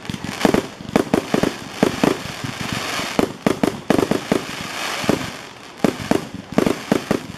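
Aerial fireworks firing and bursting in quick succession: a rapid run of sharp bangs, several a second, over a steady crackling hiss.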